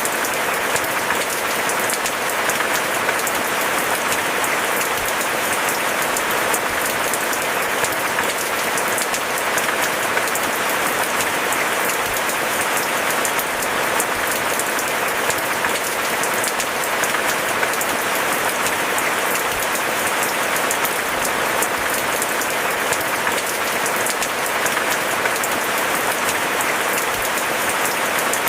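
Steady rain: a dense, unbroken patter of countless drops at an even level throughout.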